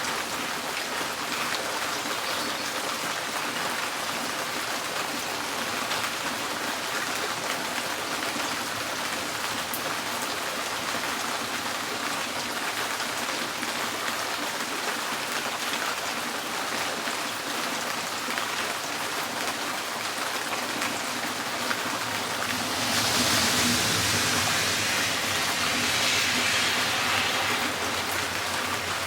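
Steady rain drumming on a tin porch roof. Near the end it swells louder for about five seconds, with a low rumble under it.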